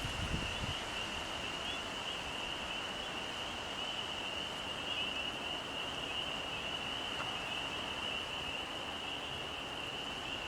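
Frogs calling in a steady, unbroken high-pitched chorus, with a brief low rumble of wind on the microphone at the start.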